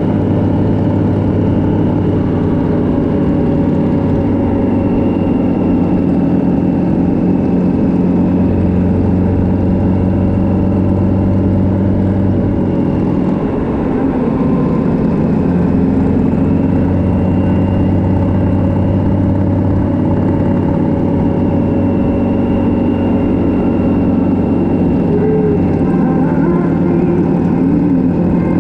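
Motorcycle engine running steadily at road speed, with a brief drop in level and a change in engine pitch about 13 seconds in.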